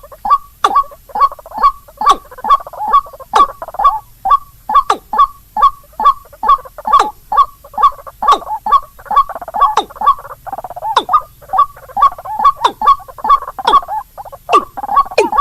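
Bird-lure recording of white-breasted waterhen calls mixed with rail calls. It repeats short downward-sliding notes about three times a second, with a rough chattering chorus between them.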